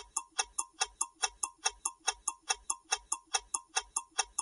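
Countdown timer sound effect: evenly spaced clock ticks, about five a second, marking the seconds left to answer the question.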